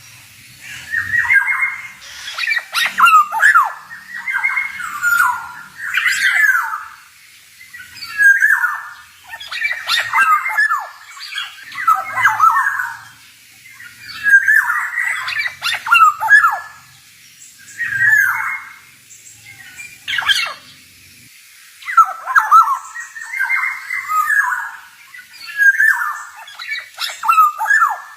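Male black-naped oriole (kepodang) singing: dense groups of quick whistled and harsh sweeping notes, each group a few seconds long with pauses of about a second between them.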